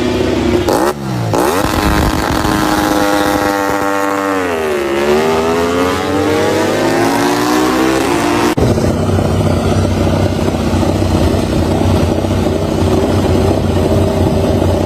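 MotoGP race motorcycle engine at high revs, with a brief sharp dip in pitch about a second in. The pitch then falls steadily as the bike slows and rises again as it accelerates. About eight and a half seconds in it changes suddenly to a steadier, lower engine sound.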